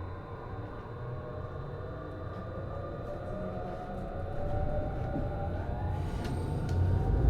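Hitachi IGBT-VVVF inverter and traction motors of a Series HB-E210 hybrid train whining, several tones rising in pitch as the train accelerates, over a rumbling running noise that grows louder toward the end.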